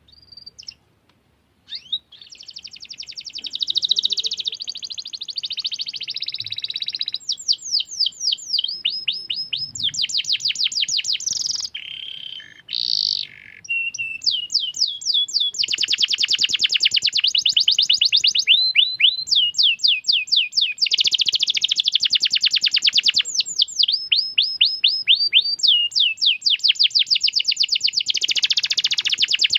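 Domestic canary singing: 'cuit cuit' chirps and long rolling trills of rapid repeated high notes, with short pauses between phrases.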